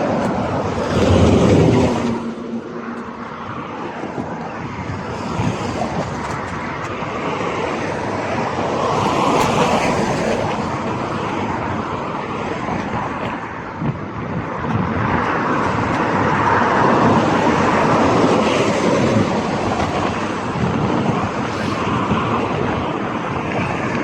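Street traffic heard from a bicycle on the move: passing cars over a steady rushing road noise, with a louder low rumble about a second in.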